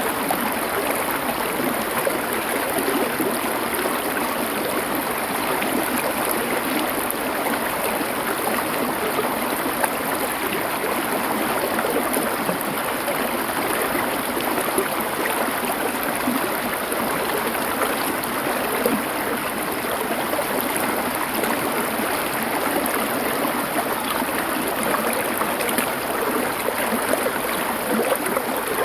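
Small river flowing over stones: a steady, even rush of moving water with a fine trickle and gurgle.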